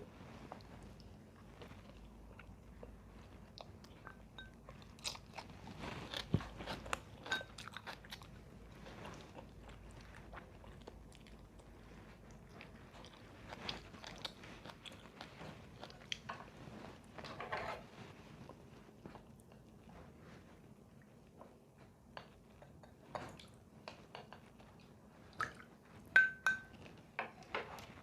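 A person biting and chewing crunchy food, in several spells of crisp crunching with quieter pauses between; the sharpest crunches come near the end.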